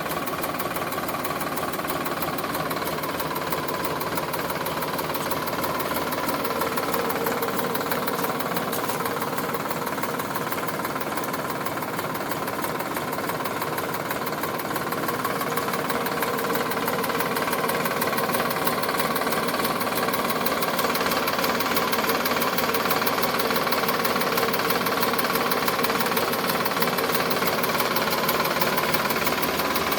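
Sonalika DI 745 tractor's diesel engine running steadily with a fast knocking clatter, getting a little louder about halfway through.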